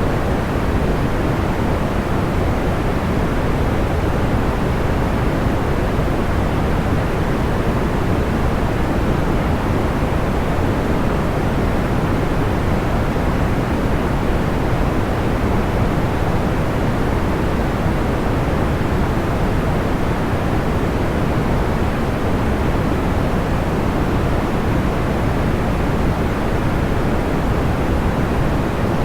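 Steady white noise, a smooth even hiss weighted toward the low and middle pitches, with no crackles or pops.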